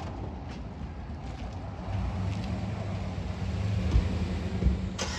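A motor vehicle's engine running, a low steady hum that grows louder about two seconds in, with two dull knocks near the end.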